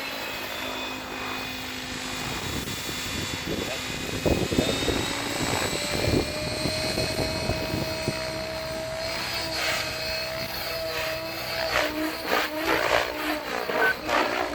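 Logo 700 RC helicopter in flight: a steady motor and rotor whine that shifts in pitch. Louder bursts of blade noise come about four to six seconds in and again near the end.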